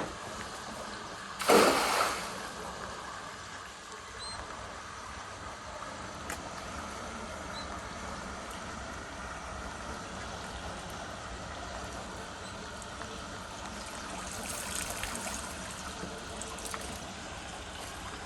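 A cast net splashes onto the water about a second and a half in, followed by a steady trickle of water.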